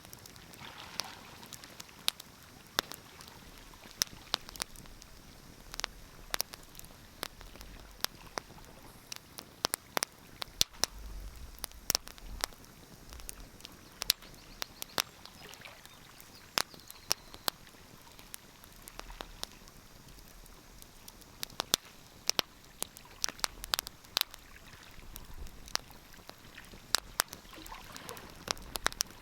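Wood fire crackling in a fireplace: irregular sharp pops and snaps, several a second at times, over a faint steady hiss, with a low rumble now and then.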